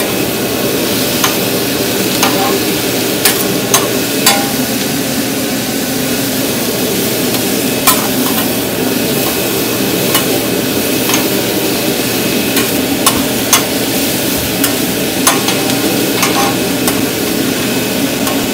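Beef frying in garlic butter on a grill, sizzling steadily, with a utensil clicking sharply against the cooking surface now and then.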